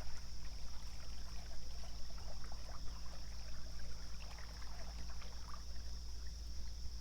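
Light water splashing and trickling beside a small fishing boat, over a steady low rumble and a steady high hiss.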